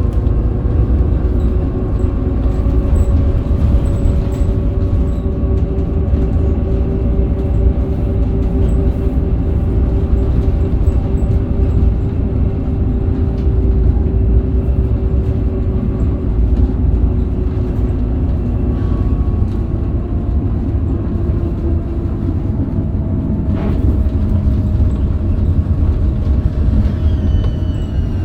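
Scania K270UB bus's 9-litre DC9 engine and ZF Ecomat automatic driveline, heard on board while the bus drives along with a steady low rumble. The engine note sinks slowly for most of the stretch, then a single knock comes about 23 seconds in, followed by the pitch climbing again with a rising whine near the end.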